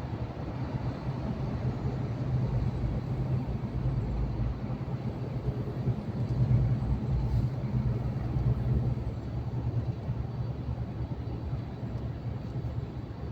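Truck engine and tyre noise droning steadily while driving, a low rumble that swells a little around the middle.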